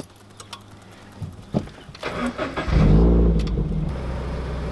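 Scion FR-S flat-four boxer engine starting: after a few small clicks, it cranks and catches about two and a half seconds in with a brief rev flare, then settles into a steady idle.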